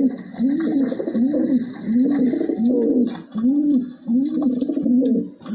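Recorded pigeon cooing: a steady series of low, arching coos, about two a second.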